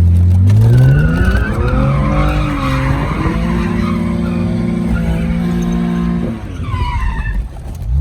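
Car engine revving hard and the tyres squealing as the car is spun in a donut. The engine holds a steady high note for a few seconds, drops off about six seconds in, and a short squeal follows near the end before it revs again.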